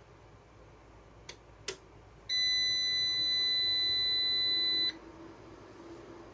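Two light clicks, then one steady, even electronic beep from a small piezo buzzer, about two and a half seconds long, which cuts off sharply.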